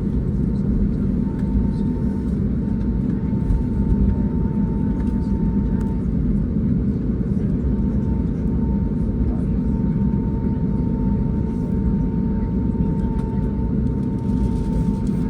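Airbus A321neo cabin noise with the aircraft taxiing after landing: a steady low engine and airframe rumble, with a faint steady high whine over it.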